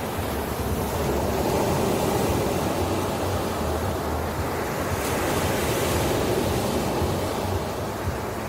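Ocean waves washing onto a shore, the surf swelling about a second in and again around the middle, over a steady low rumble of wind on the microphone.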